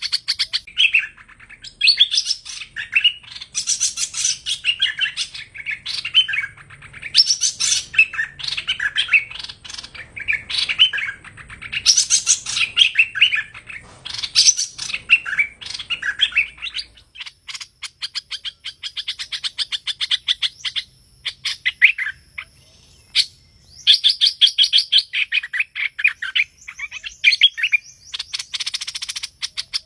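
Song of the bird called hoành hoạch in Vietnam: chattering phrases of quick high chirps and fast trills, one after another, broken by short pauses.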